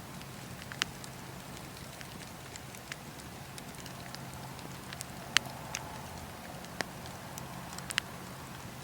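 Wood fire in a fireplace crackling, with several sharp pops scattered through over a steady low background.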